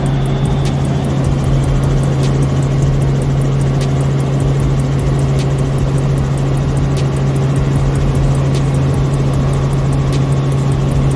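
Helicopter in flight: a loud, steady drone with a constant low hum.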